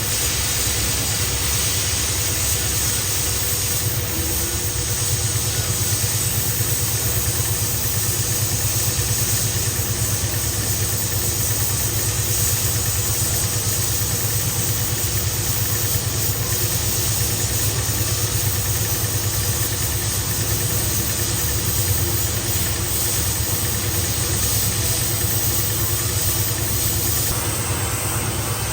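Heavy boring machine running steadily while machining a steel pipe: a constant low mechanical hum with a faint high whine that stops near the end.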